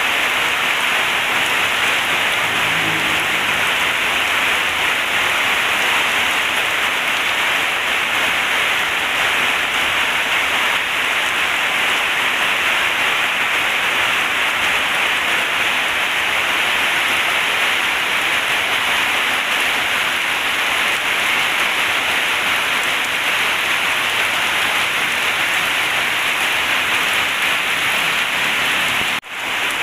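Heavy rain falling steadily as a dense, even hiss, cutting out for an instant near the end.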